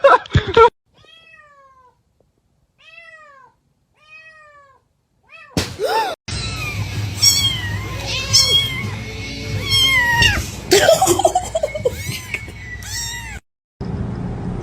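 Cats meowing: three faint meows in the first few seconds, then a run of louder meows over a steady low hum that cuts off suddenly near the end.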